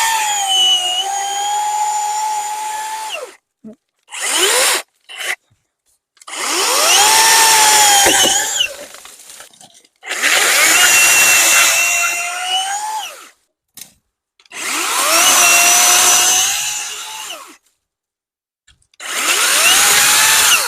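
Worx WG385E 16-inch cordless chainsaw, running on two batteries, cutting logs in a series of short runs. Each time the electric motor whines up to speed, its pitch sags as the chain works through the wood, and then it stops. This happens about five times, with pauses of a second or two between runs.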